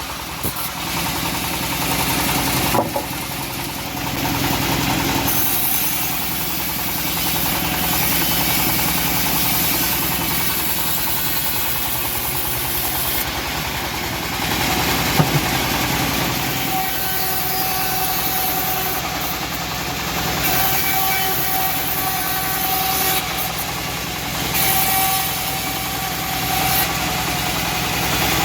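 Engine-driven homemade bandsaw mill running steadily while resawing teak, with a couple of brief sharp knocks.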